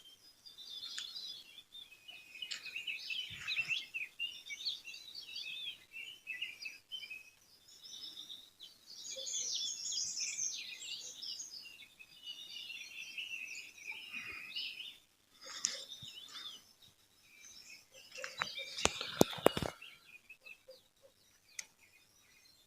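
A mix of small birds chirping and twittering, with many short high calls and trills coming in waves. Near the end there is a quick cluster of sharp clicks, the loudest sound in the stretch.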